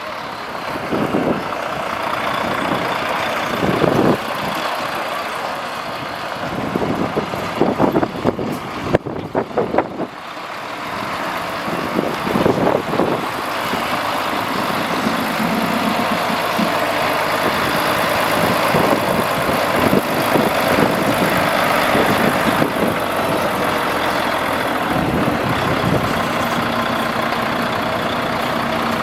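Diesel engines of tractors and lorries running as the vehicles move, with a spell of louder, irregular noise about a third of the way in and a steadier engine drone through the second half.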